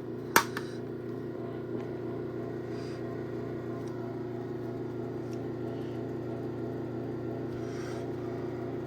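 Craftsman garage door opener motor running its closing cycle, a steady electric hum with drive noise. A single sharp click, the loudest moment, comes shortly after it starts.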